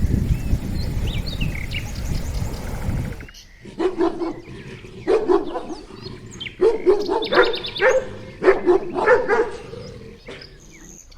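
A few seconds of low rumbling noise with faint chirps, then an animal barking: short barks in quick runs of two or three for about seven seconds.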